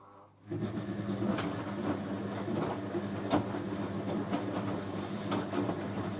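Hoover A3060 Electronic 1100 washing machine starting a wash tumble about half a second in after a pause. The drum motor hums steadily while the wet bedding turns in the drum with irregular clicks and knocks.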